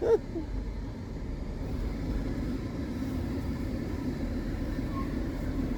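A car running, heard from inside its cabin: a steady low hum.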